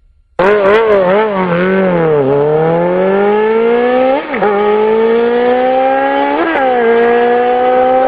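High-revving engine that starts suddenly just under half a second in with a few quick revs, then accelerates hard. Its pitch climbs steadily and drops sharply at upshifts about four and six and a half seconds in, climbing again after each.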